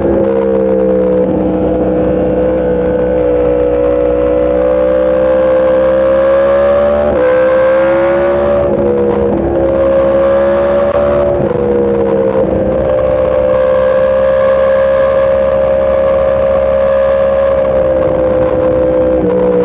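Motorcycle engine running hard at speed. Its note climbs slowly, dips sharply three times partway through, then holds a steady pitch, under a constant rush of wind noise.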